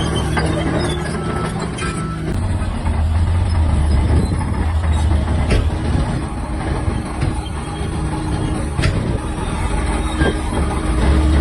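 Large crawler bulldozer's diesel engine running steadily, its pitch shifting about two seconds in, with scattered sharp metallic clanks from the tracks.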